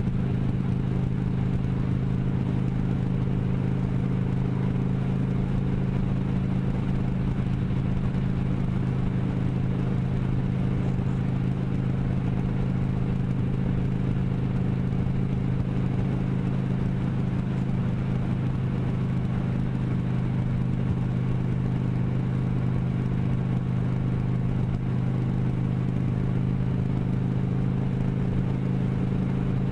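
Motorcycle engine running at a steady, unchanging speed, with no revving or shifting.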